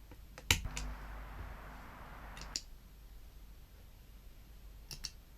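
A few sharp clicks: the loudest about half a second in, a pair about two and a half seconds in and another near the end, with a soft hiss between the first click and the pair.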